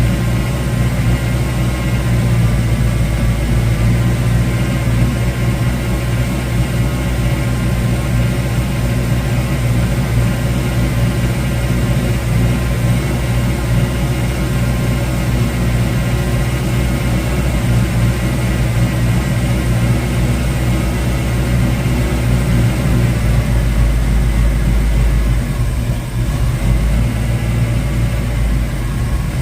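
1972 Ford Mustang Mach 1's freshly rebuilt V8, fitted with a Crane 2040 cam and breathing through a single 3-inch exhaust with a Black Widow Venom muffler, idling steadily as it warms up after its first start. Its low rumble shifts briefly about three-quarters of the way through.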